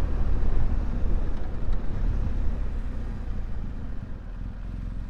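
Motorcycle engine running at road speed under a heavy rush of riding noise. About four seconds in it gets quieter and settles into a steadier, lower note.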